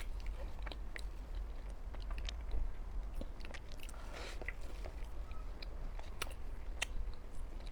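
Close-up chewing and biting of a flaky-pastry mooncake with a dense filling: scattered small mouth clicks and soft crunches, with a slightly louder crunch about four seconds in.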